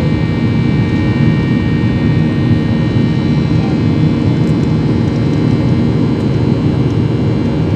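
Cabin noise inside a Boeing 737-800 in the air, heard from a seat ahead of the wing: the CFM56-7B engines and the airflow make a steady, even noise with a few faint, steady whining tones above it.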